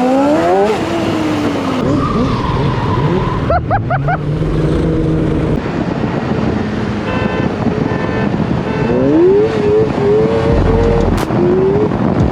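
Go-kart engines revving hard, their pitch rising and falling again and again. There is a quick flurry of short throttle blips about three and a half seconds in, and climbing runs that step up in pitch later on.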